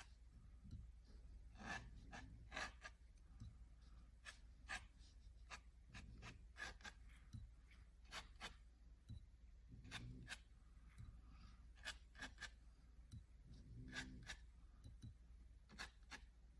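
Pen nib scratching on watercolour paper in short, irregular strokes as ink lines are drawn in; faint.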